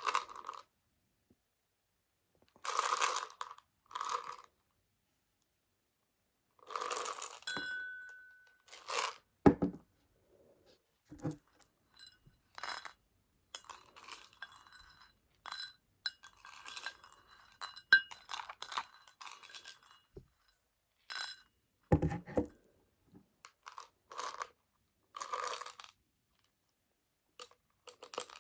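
Meiji Choco Baby, tiny chocolate pellets in a plastic case, being tapped and shaken for ASMR. It comes as short bursts of pellets rattling, a long spell of many small clicks in the middle, and two sharper knocks on the container.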